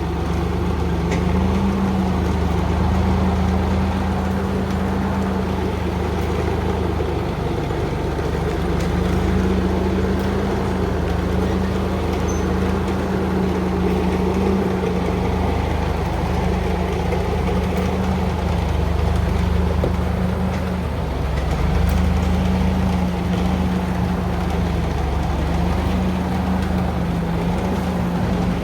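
Old heavy truck's engine running steadily, a deep continuous drone whose pitch shifts slightly up and down every few seconds.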